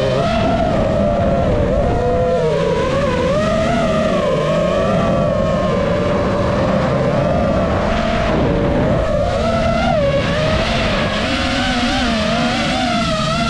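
Enduro motorcycle engines running off-road, their pitch rising and falling continuously as the riders work the throttle.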